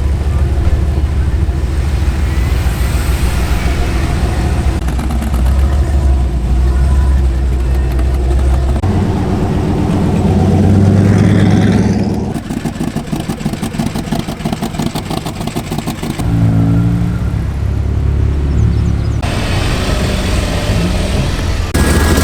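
Car engines running loudly with a deep low drone, with a rev rising in pitch about sixteen seconds in; the sound changes abruptly several times.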